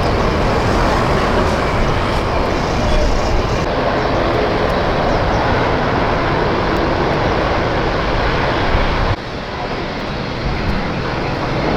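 Aircraft engines running at high power, a loud steady roar with a deep low end. The roar drops suddenly about nine seconds in, then carries on quieter.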